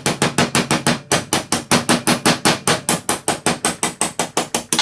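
Rapid, even taps of a tapping mallet on a punch, about seven a second, driving a sticky piston pin out of a Stihl BR86c two-stroke piston to free the top end bearing.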